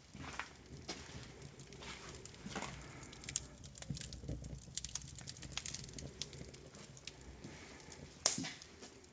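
Wood fire crackling with scattered small pops in a newly built fireplace's firebox, burning low in smouldering mode; one louder pop about 8 seconds in.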